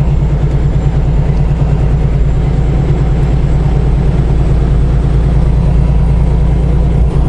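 Semi truck's diesel engine running steadily while under way, with a fast, even low throb.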